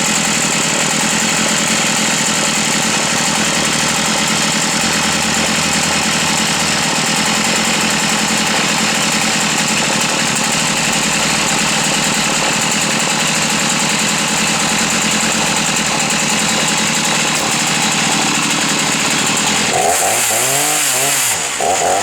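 Chainsaw engine running at a steady speed, then revving up and down a few times near the end.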